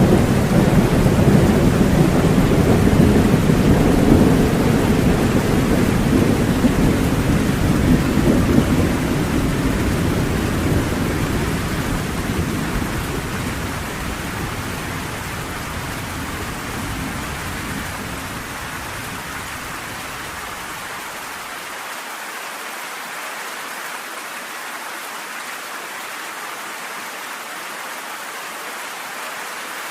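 Steady rain with a long low rumble of thunder, loudest in the first few seconds and dying away over about twenty seconds, leaving only the even hiss of the rain.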